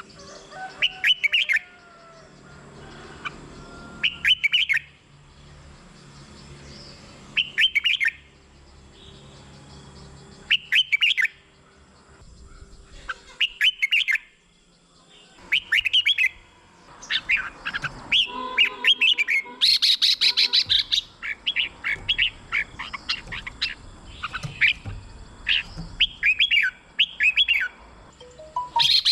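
Red-whiskered bulbul singing short whistled phrases, about one every three seconds. A little past the middle they give way to a busier, near-continuous run of quick chirping phrases.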